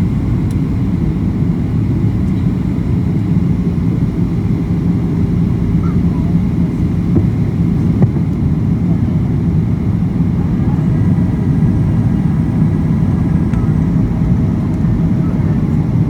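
Steady cabin rumble of a Boeing 737-800 airliner, the engine and airflow noise heard inside the passenger cabin, with a steady low hum running through it.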